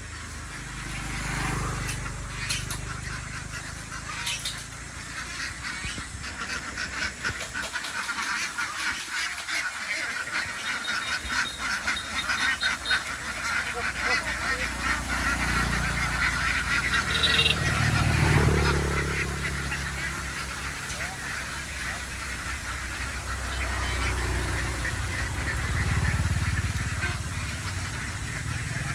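A large flock of domestic ducks quacking in a dense, continuous chorus that builds toward the middle. Underneath, a low rumble swells and fades, loudest about two-thirds of the way in and again near the end.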